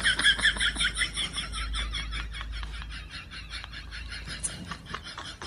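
An animal making a rapid run of short, high-pitched chirping calls, about six a second, loudest at first and growing fainter after a few seconds.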